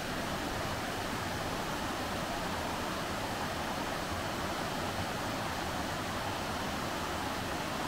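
Rushing water, a steady, unbroken rush.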